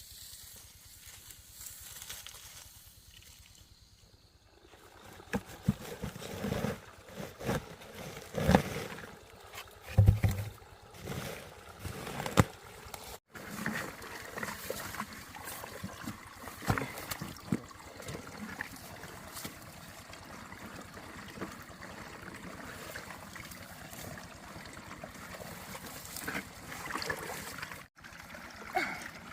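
Water trickling and splashing, with a run of irregular splashes and knocks in the first half, then a steadier flow with occasional smaller splashes.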